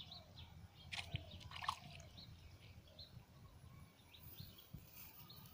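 Small birds chirping faintly and on and off over a low background rumble, with two short louder sounds between one and two seconds in.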